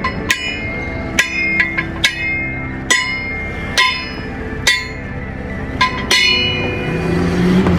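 Hammer blows on steel, about one a second, each strike leaving a short metallic ring; a steady hum comes in near the end.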